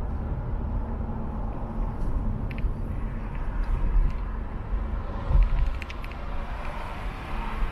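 Car road noise heard from inside the cabin while driving in city traffic: a steady low rumble of engine and tyres, with one louder low thump about five seconds in and a few faint ticks.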